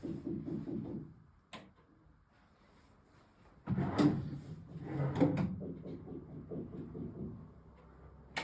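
Wooden wardrobe drawer sliding on its runners, opened and shut with several sharp knocks; the loudest slide and knocks come about four to five seconds in.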